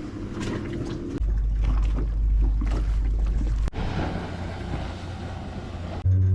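Wind buffeting the microphone over sea and boat ambience, in short pieces with abrupt cuts about a second in and near four seconds. Acoustic guitar music comes in just before the end.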